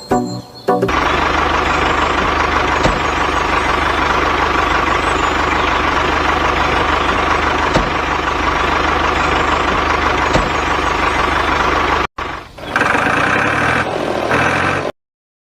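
Tractor engine running steadily, starting about a second in. It breaks off near the end, a different sound with a clear pitch follows briefly, and then the audio cuts off suddenly.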